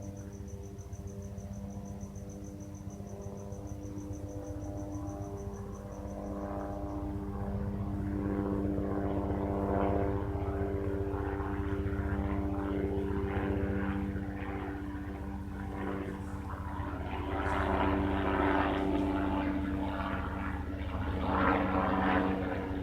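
Helicopter flying nearby, its rotor and engine sound growing louder from about eight seconds in. A cricket chirps steadily in the first few seconds.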